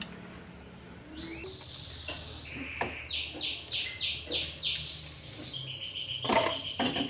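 A bird chirping: a run of quick, repeated falling chirps, then steady high-pitched twittering. Near the end, two clinks of metal tongs against the aluminium pan.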